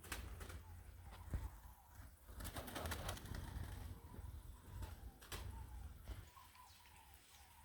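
Birds in an aviary calling with soft, short, repeated notes over a low rumble on the microphone, with a few clicks and a brief burst of noise midway.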